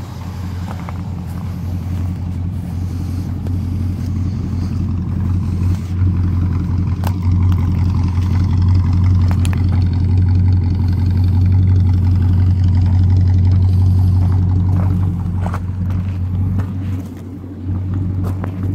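1963 Oldsmobile F85 Cutlass's 215 aluminum V8, with a four-barrel carburettor and glasspack mufflers, idling smoothly with an even, low purr. The exhaust note grows louder toward the middle and eases off near the end.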